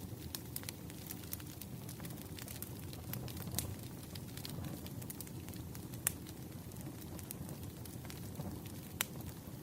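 Wood fire burning, a steady low rumble with scattered sharp crackles and pops, the loudest about six and nine seconds in.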